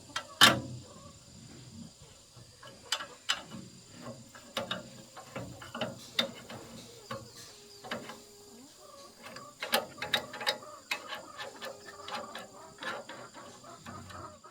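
Irregular clicks and knocks of hand tools working on metal machine parts, with the loudest knock about half a second in.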